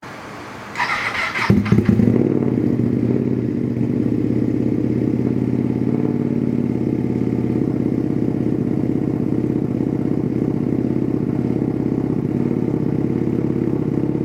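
Ducati Panigale motorcycle with an aftermarket exhaust being started: a short crank from the starter, the engine catching about two seconds in, then a steady idle.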